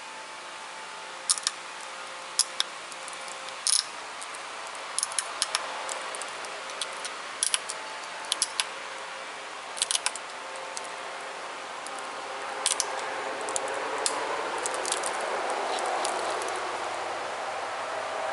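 Pressure flaking a thin tiger chert flake: sharp little clicks, irregular, a few every second or two, as tiny flakes pop off the edge of the stone. A steady background noise grows louder in the second half.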